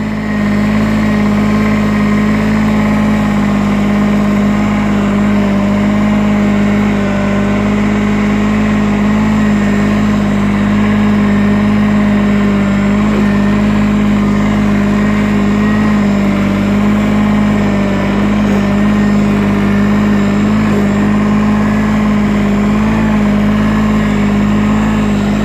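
Small diesel garden tractor engine running steadily at an even speed, close to the microphone.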